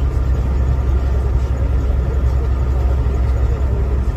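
Steady low drone of a semi truck under way, heard from inside the cab: engine and road noise without a break.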